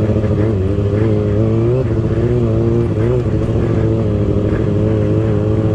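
Dirt bike engine running at a fairly steady speed, its pitch wavering slightly with small throttle changes.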